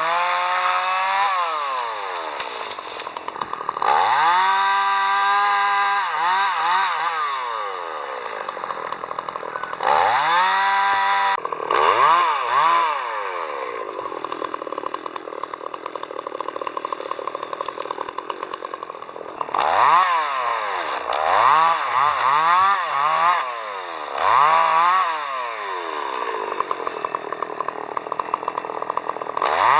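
Chainsaw revving up and dropping back to idle again and again, with a longer stretch of idling about halfway through and a run of quick throttle blips near the end.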